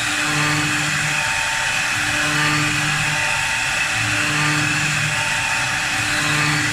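4-axis CNC wood lathe turning a sofa leg, its spindle and cutter running steadily with a hiss, under a low hum that swells and fades about every two seconds.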